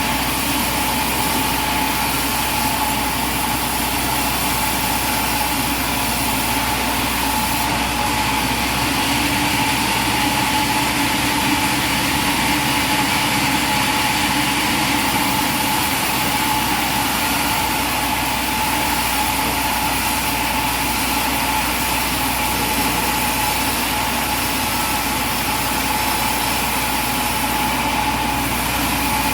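Engine-driven machinery running steadily: a constant drone with a steady high whine over it that does not change.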